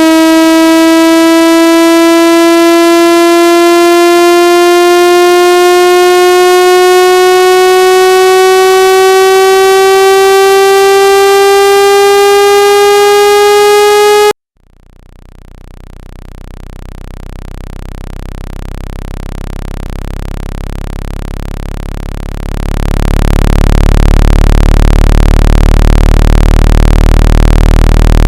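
Synthetic speaker water-ejection tone played for clearing water out of a phone speaker: a loud pitched tone with many overtones, slowly rising, that cuts off suddenly about halfway through. A low buzz then fades in and jumps louder a few seconds before the end.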